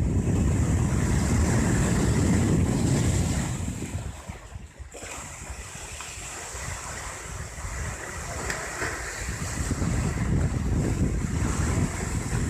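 Wind buffeting the microphone at sea, over a rush of sea water. It eases off about four seconds in, then builds back up.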